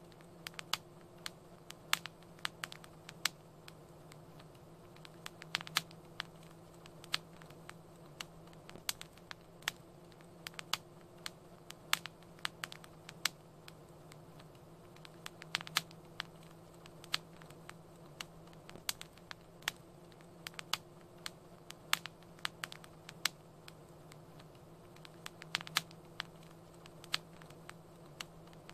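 Wood fire crackling: irregular sharp pops and snaps, several a second, over a faint steady low hum.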